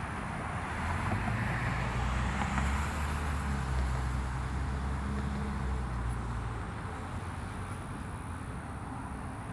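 Jet airliner's engines rumbling as the aircraft passes, swelling about a second in and fading away after about six seconds.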